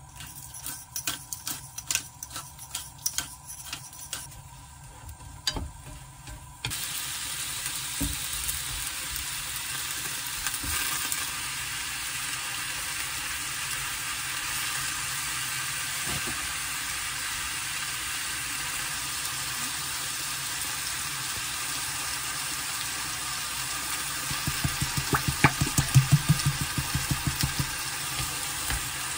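Thin slices of pork belly and vegetables dropped into a frying pan with soft taps and rustles. About seven seconds in, a steady sizzle starts abruptly as the pork, onions, green onions and bean sprouts fry in the hot pan. Near the end there is a quick run of low thuds.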